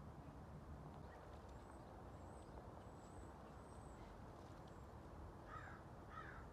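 Near silence: faint outdoor ambience with a low rumble and faint high bird chirps, then two short, harsh bird calls less than a second apart near the end.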